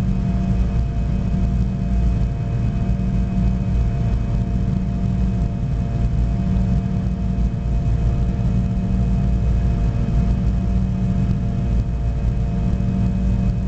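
Cabin noise of a Fokker 70 jet airliner in flight after take-off: the steady drone of its rear-mounted Rolls-Royce Tay turbofans and the rush of air over the fuselage, a deep rumble with several steady hums above it.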